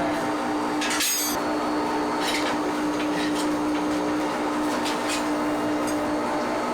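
Machinery running with a steady hum, with a few short hissing or clattering bursts, the loudest about a second in.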